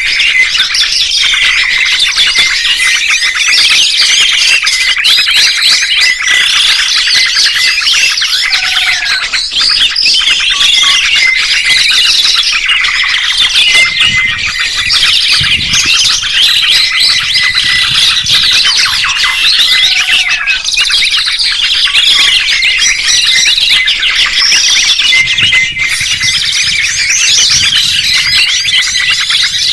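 Many songbirds chirping and twittering at once in a dense, unbroken chorus of quick, overlapping high calls and trills.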